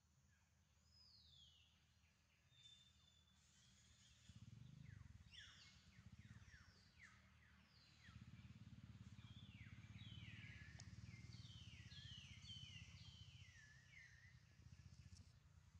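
Faint birds chirping, series of quick falling notes that come thicker after the first few seconds, over a low rumble that starts about four seconds in.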